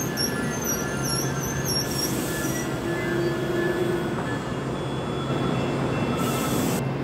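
VIA Rail passenger train led by a Siemens Charger locomotive: a steady rumble and low hum, with wavering high squeals in the first couple of seconds and two short bursts of hiss, one about two seconds in and one near the end.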